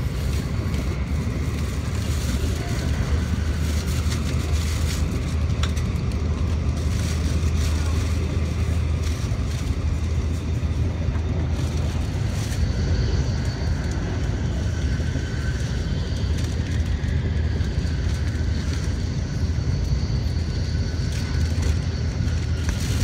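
Steady running noise heard inside the passenger cabin of an N700A Shinkansen train in motion: a low rumble with wheel and track noise. A high steady whine comes in about halfway through.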